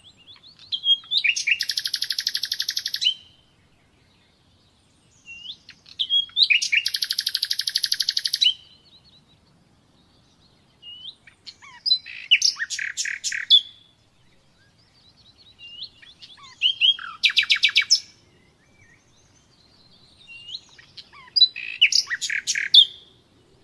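Nightingale singing five separate phrases, each a fast run of rapidly repeated notes or trills led in by short whistled notes, with pauses of a couple of seconds between phrases.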